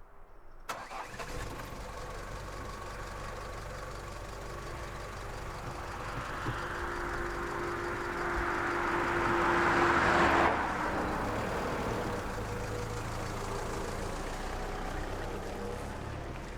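A car driving off, engine running with road and tyre noise. The noise starts suddenly, swells to its loudest about ten seconds in, then drops sharply and runs on steadily.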